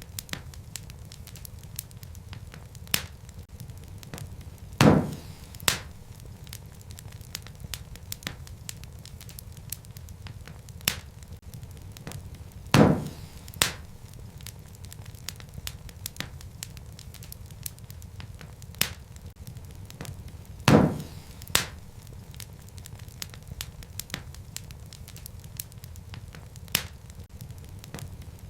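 Wood fire crackling in a fireplace: a steady low rumble of flames with frequent small snaps. A louder pop, followed shortly by a second one, comes about every eight seconds.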